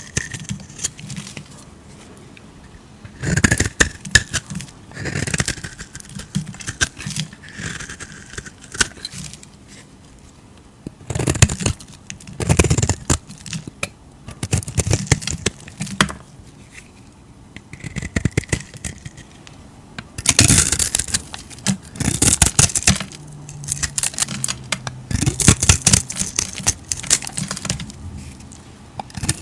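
Knife cutting into bars of soap: crisp crackling and scraping, dense with small clicks, in several bouts of a second or two with quieter gaps between.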